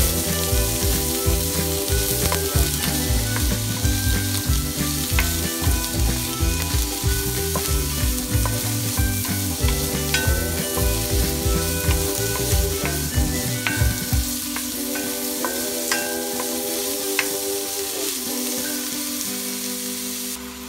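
Chopped onion and ginger sizzling as they sauté in oil in a stainless steel pan, with the scrape and click of a wooden spoon stirring them. Background music with a bass beat plays under it, and the beat drops out about two-thirds of the way through.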